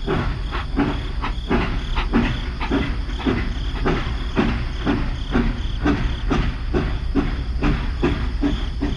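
A small motor-driven machine running with a steady rhythmic chugging, about two beats a second, over a constant low hum.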